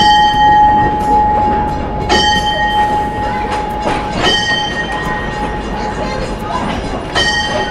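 Diesel-hauled passenger train of the White Mountain Central Railroad starting to pull away. A steady high tone fades out about four seconds in. Sharp metallic clanks ring on for about a second each and come every two to three seconds.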